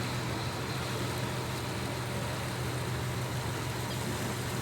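Tour boat's engine running with a steady low hum, heavy and constant.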